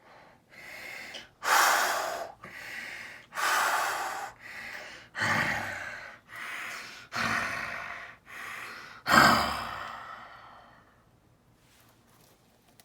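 A person breathing heavily and fast, with about five in-and-out breath cycles in which each louder breath follows a quieter one. The last breath, about nine seconds in, is the loudest and trails off slowly.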